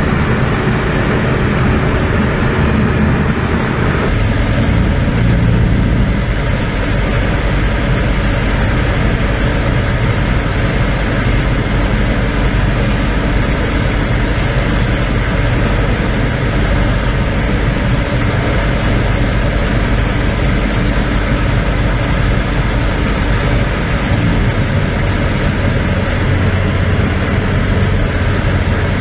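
Light aircraft's piston engine and propeller droning steadily in flight, heard from inside the cockpit, with a slight change in tone about four seconds in.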